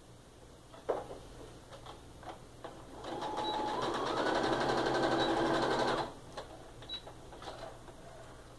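Sewing machine stitching a short seam in quilt piecing: a few clicks of handling, then the motor runs for about three seconds with rapid needle strokes, speeding up shortly after it starts, and stops abruptly.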